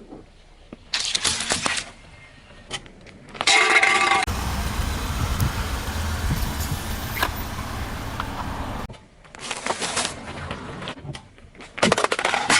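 A car rolling over and crushing crunchy things: several short bursts of crunching and cracking under the tyres, with a stretch of steady low engine and tyre rumble between them.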